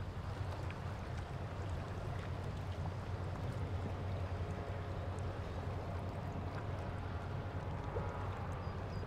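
River water lapping and splashing against a stone breakwater, over the steady low drone of a passing ship's engine.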